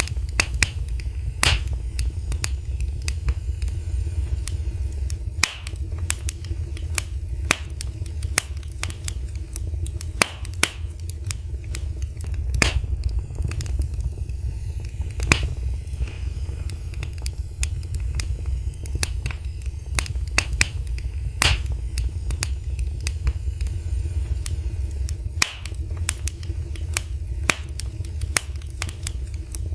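Wood fire burning in a fireplace: a steady low rumble of the flames with frequent, irregular sharp crackles and pops from the burning wood, a few of them loud.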